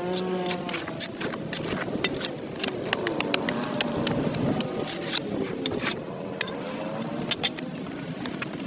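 A hand tool scraping dirt off a concrete sidewalk in quick, irregular strokes. A vehicle engine rises and falls in pitch in the background.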